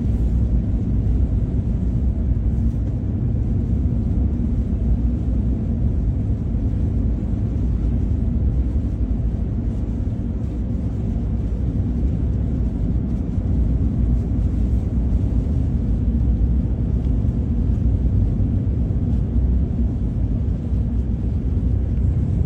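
Steady low road rumble inside the cab of a moving truck: engine and tyre noise at cruising speed.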